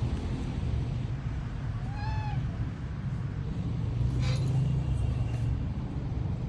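A cat meows once, a short call that rises and falls, about two seconds in, over a steady low hum.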